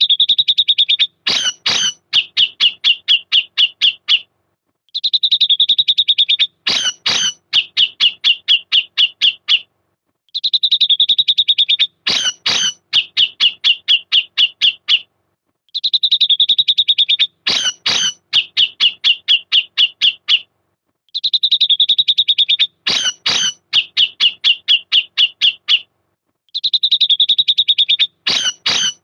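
Grey-cheeked bulbul (cucak jenggot) calling: a short buzzy note and a harsh sweep, then a rapid run of sharp 'pik' notes at about five a second. The same phrase repeats about every five seconds, six times over.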